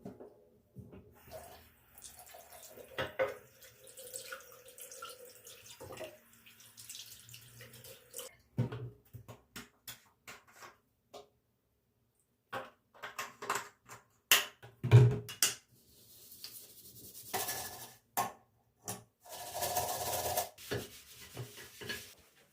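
Water running from a tap into a sink in short spells, with clicks and knocks of things being handled.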